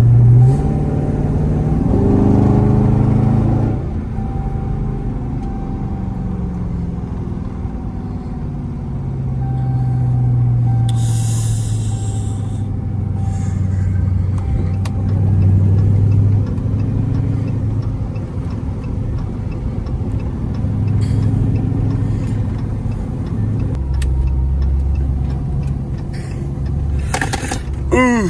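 Dodge Scat Pack's 6.4-litre HEMI V8 heard from inside the cabin while driving, revving up and accelerating about two seconds in, then cruising with the engine note rising and falling with traffic. A short hiss comes near the middle.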